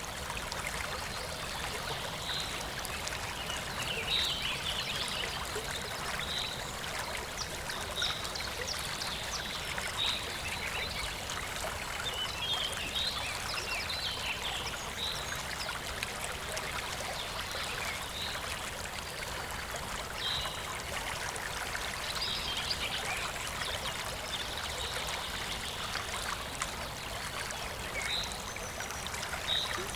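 Clear stream water flowing and trickling steadily. Short high chirps repeat every two seconds or so over it.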